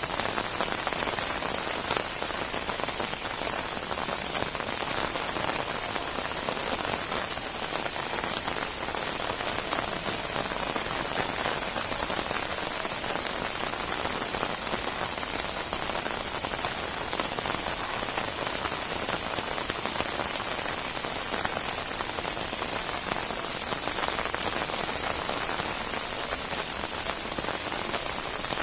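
Steady rain falling on a surface, a dense even hiss with scattered faint drop ticks.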